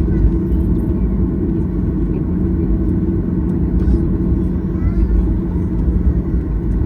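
Steady low rumble and hum inside the cabin of a Boeing 737-800, its engines at idle as the jet taxis after landing.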